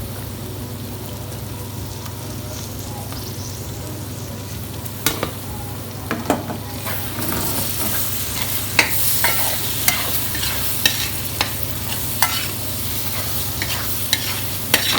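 Spiced onion masala frying in coconut oil in a pan, sizzling while a spoon stirs it, scraping and clinking against the pan. From about five seconds in, the sizzle grows louder and the scraping strokes come more often, over a steady low hum.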